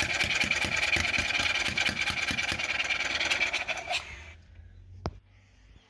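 A golf cart's Kawasaki engine being cranked over with the choke on, turning with a rapid, even beat but not catching; the cranking stops abruptly about four seconds in, and a single sharp click follows about a second later.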